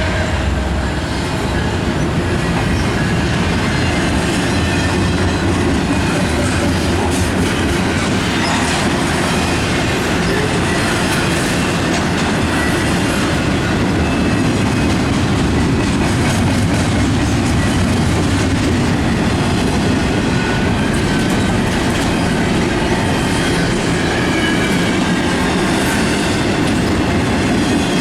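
Canadian National intermodal freight train rolling past close by: a steady, loud rumble of steel wheels on rail with clickety-clack over the rail joints.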